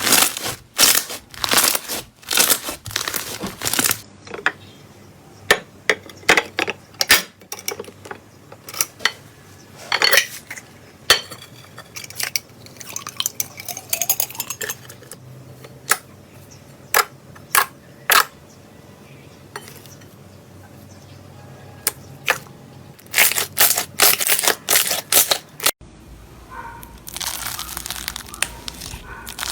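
Slime being squeezed, pressed and poked by hand, giving bursts of sharp pops, clicks and crackles, some clustered and loud, others sparse and soft.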